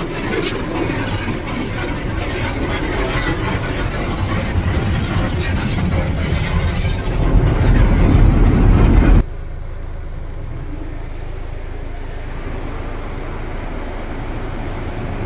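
Automatic car wash heard from inside the car: water spray and foam beating on the car's body, growing louder, then cutting off suddenly about nine seconds in as the wash round ends. A steady low hum is left behind.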